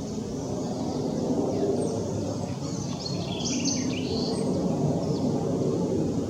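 Steady low rumble of a jet aircraft flying over, with a few short bird chirps in the middle.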